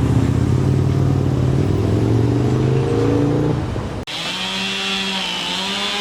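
A large road vehicle's engine accelerating, its pitch slowly rising. About four seconds in it cuts off abruptly, and a steady whining motor takes over, dipping briefly in pitch once.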